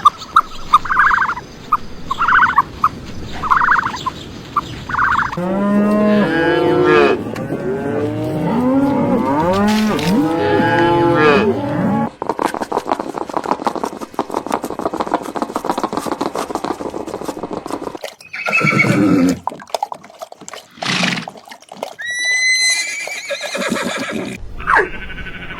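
Farm animal calls in a run of separate clips. Short repeated calls come first, then a long stretch of many calls that rise and fall in pitch, and a few separate calls near the end, one of them high and rising.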